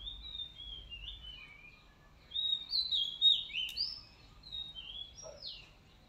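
A bird singing a quick series of short chirping notes that slide up and down in pitch, loudest around the middle.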